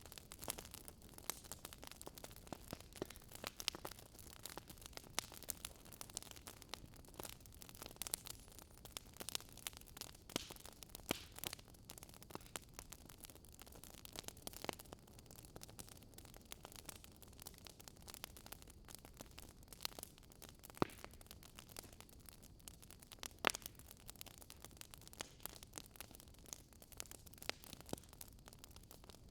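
Wood fire in a fireplace crackling: frequent, irregular sharp pops and snaps over a faint steady hiss.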